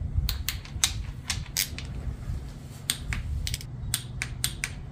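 Ratchet wrench clicking in short, uneven strokes as bolts on the 2AZ-FE timing chain assembly are tightened toward 30 N·m, over a steady low hum.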